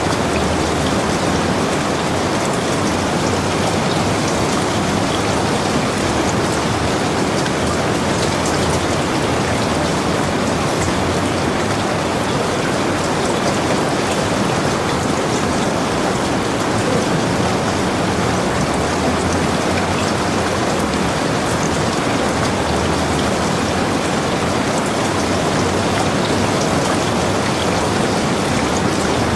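Heavy rain falling steadily on a log cabin and the forest around it, an even hiss of rain with scattered drops pattering on surfaces.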